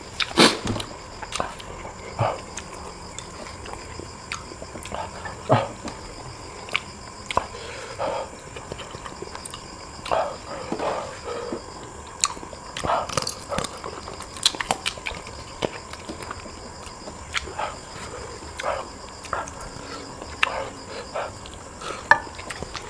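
A person eating close to the microphone: irregular wet smacks, chewing clicks and slurps, with short pauses between bites.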